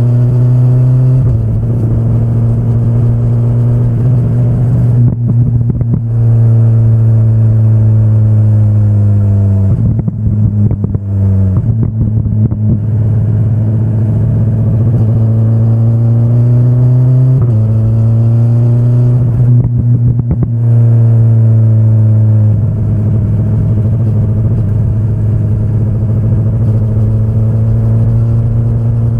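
2025 BMW S1000RR's inline-four engine running under load, its pitch stepping and gliding up and down several times as the throttle is rolled off and back on. A few brief off-throttle moments bring a rattly crackle before the engine pulls again.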